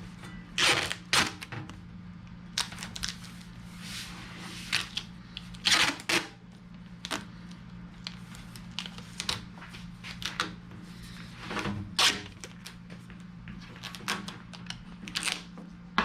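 Irregular clicks, knocks and rustles from hands handling duct parts and an inline booster fan unit, over a steady low hum.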